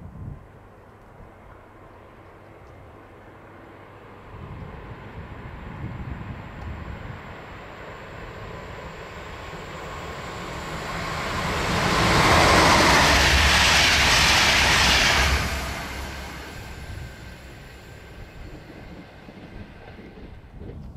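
Train passing through the station at speed without stopping: it grows louder as it approaches, is loudest for about three seconds in the middle, then fades as it goes away.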